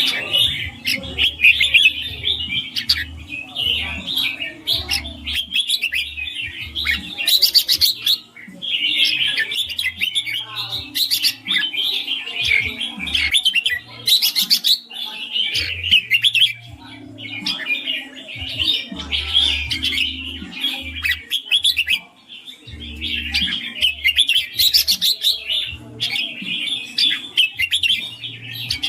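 Red-whiskered bulbul singing a rapid, continuous chattering song, its 'ring' style, with short pauses about 8, 16 and 22 seconds in.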